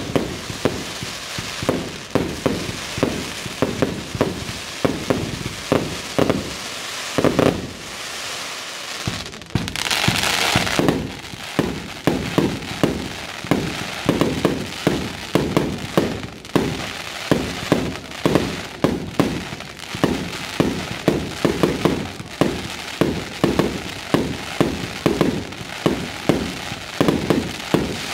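Aerial fireworks firing in a rapid barrage: bangs about two to three a second, with a hissing burst about ten seconds in.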